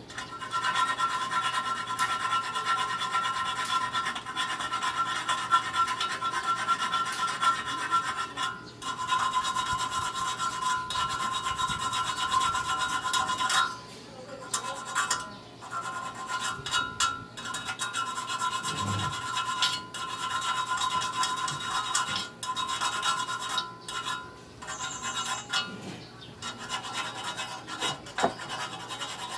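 Sanding the uneven, freshly cut end of a Suzuki Gixxer 155's steel muffler to smooth it: a steady rasping that pauses briefly a few times.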